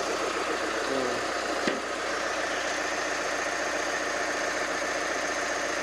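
Chevrolet Colorado's 2.8 L Duramax four-cylinder turbodiesel idling steadily, running again after a starter replacement cured its no-start. A single sharp click sounds about a second and a half in.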